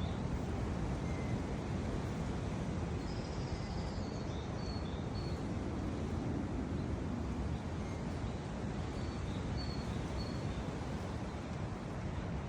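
Woodland birds chirping: short high calls in small scattered groups, over a steady low rushing background noise.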